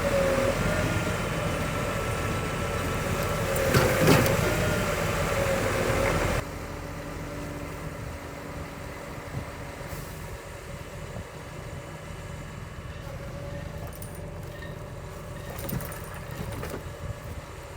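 Scania R500 timber truck's V8 diesel engine running steadily, with a short louder burst about four seconds in. After about six seconds the sound drops suddenly and the engine drones on more faintly.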